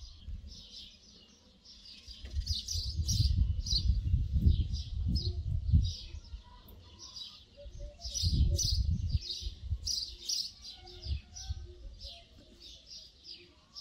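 Small birds chirping, many short high calls in quick succession. A low rumble swells up about two seconds in and again around eight seconds, louder than the birds.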